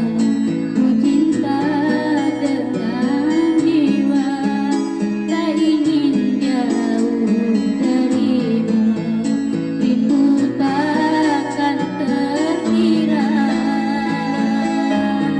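Teenage girl singing a slow love song in a sweet, gliding voice over instrumental backing music.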